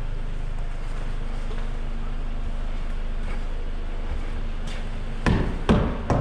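Car engine running with a steady low hum. A few short, sharp sounds break in about five seconds in.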